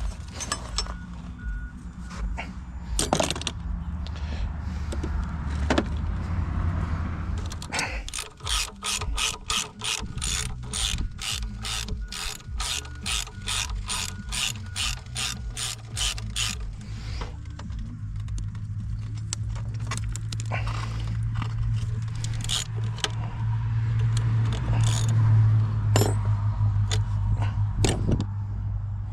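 Ratchet wrench being cranked, a run of even clicks about three or four a second for some eight seconds, with scattered metal knocks before and after as a thrown loader track is refitted. A low steady hum runs underneath and grows louder near the end.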